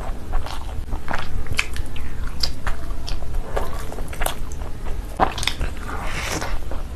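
Close-miked eating sounds of mutton curry and liver: irregular wet chewing, smacking and small mouth clicks.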